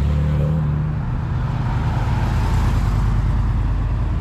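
Classic car engine running as the car drives slowly past, a steady low rumble.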